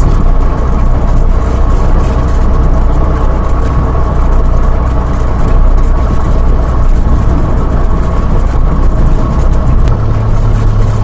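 Cessna 172's piston engine and propeller running steadily, a loud even drone, with a slight change in its low tone near the end.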